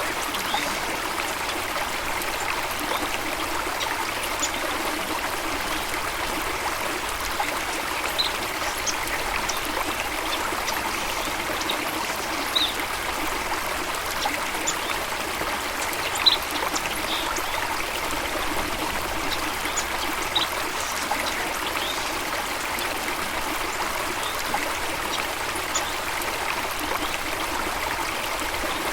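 Flowing water from a stream or small waterfall, trickling and splashing steadily, with brief high chirps of small birds scattered through it every second or two.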